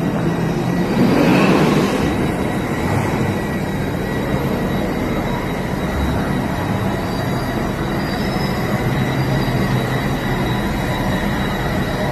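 Steady vehicle running noise: a low engine drone with road rumble, swelling louder for a moment about a second in.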